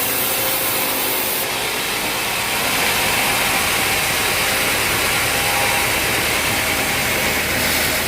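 Sawmill saw cutting through a log, with its engine running steadily underneath.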